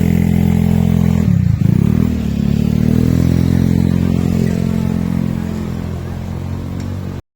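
A motorcycle engine running close by, its pitch dropping about a second and a half in and then climbing again as it revs. It cuts off abruptly near the end.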